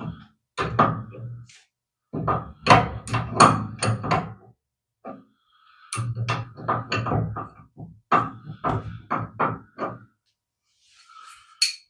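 A run of knocks, clunks and clicks from tools and metal parts being handled, a wrench working on the gas water heater's brass line fittings. The knocks come in quick clusters with short pauses between them.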